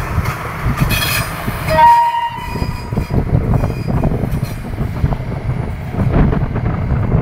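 Diesel multiple unit passing close by, with a steady low rumble of engine and wheels on the track. A short horn blast sounds about two seconds in and is the loudest moment.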